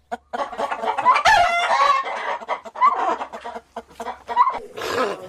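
Several animal calls overlapping, with pitch bending up and down, starting after a brief silence at the very start.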